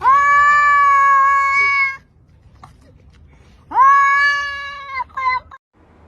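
Cat yowling: a long, drawn-out meow held at one pitch for about two seconds, then a second long meow that rises into a held note, then a short broken meow.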